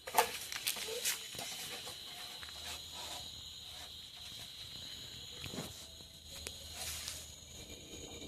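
Insects calling in a steady high-pitched drone, with scattered knocks and rustles over it; the loudest is a sharp knock just after the start.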